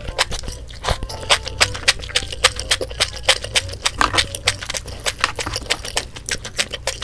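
Close-miked eating: a fast run of sharp clicks and crackles, several a second, from crisp food being chewed and eating utensils at work.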